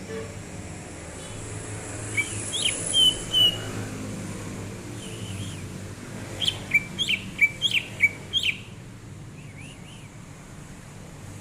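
Green leafbird (cucak ijo) singing: a short phrase of clear whistled notes, then after a pause a quicker run of about half a dozen sharp notes, over a steady low background rumble.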